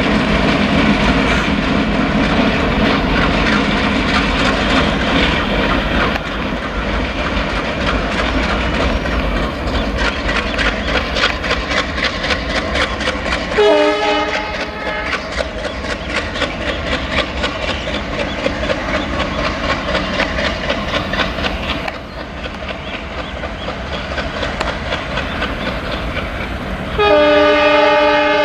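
ALCo WDG-3A diesel locomotive running light past, its engine running loud with rapid clickety-clack from the wheels on the rails. The multi-tone horn sounds briefly about halfway through, then a long blast starts near the end.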